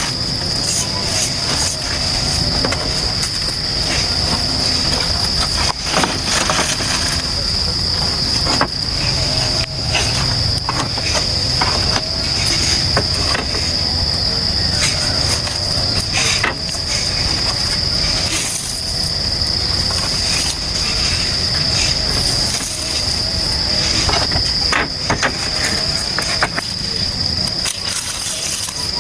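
Insects, crickets or cicadas, giving a steady, high-pitched continuous chirring drone, with scattered short clicks and knocks.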